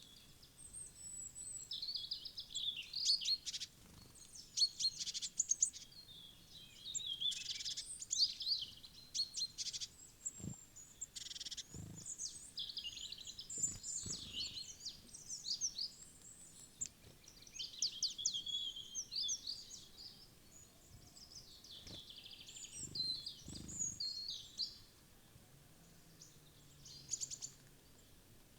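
Small woodland songbirds chirping and calling in quick, overlapping high-pitched calls, thinning out near the end, with a few soft low thumps in between.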